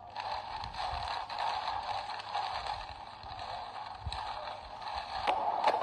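Heavy rain pattering steadily on a moving car's windscreen and body, heard through a dashcam's small microphone inside the car, with a dull thump about four seconds in and a few sharp clicks near the end.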